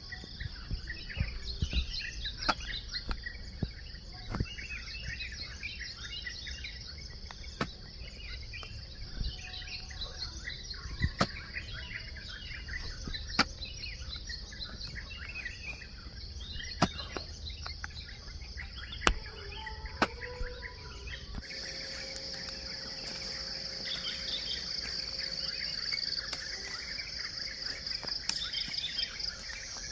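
A hoe striking into soil in sharp knocks about every two seconds, over a steady high insect drone and birds chirping and calling. The knocks thin out about two-thirds of the way through, where the insect drone gets louder.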